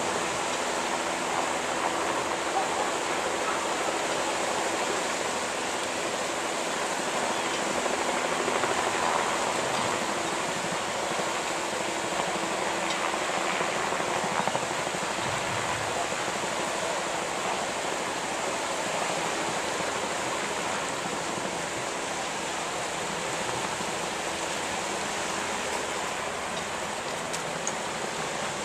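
Steady rushing of water as the tsunami surge current pours through the harbor, with a faint steady hum beneath it.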